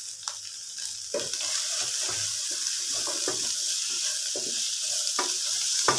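Chopped vegetables, chicken and tomatoes sizzling in an oiled kadai while a wooden spatula stirs them in irregular scraping strokes; the sizzle gets louder about a second in.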